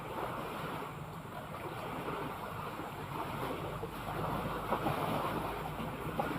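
Sea waves washing steadily, with wind on the microphone.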